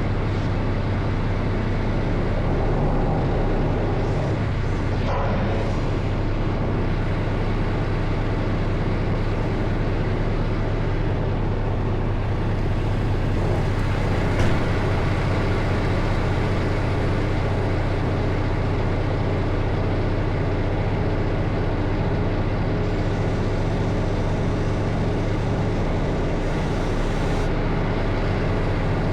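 Semi-truck's diesel engine running steadily, with a single brief click about halfway through.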